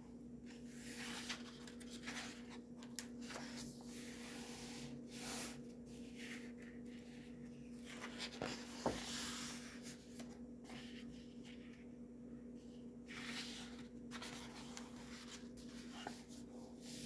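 Paper pages of a coloring book being turned and handled: faint, irregular rustling and sliding swishes, one after another, over a steady low hum.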